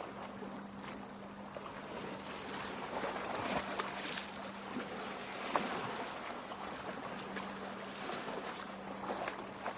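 Small lake waves lapping and splashing against a rocky shore, with water gurgling among the stones and scattered droplet splashes, one sharper splash about halfway through. A faint steady low hum runs underneath.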